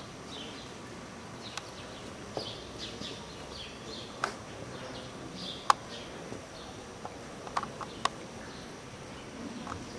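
Small birds chirping again and again over a steady background hiss, with a handful of sharp clicks or knocks scattered through.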